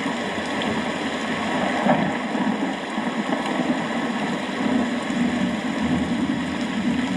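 Steady rain falling, an even hiss with a low rumbling undertone.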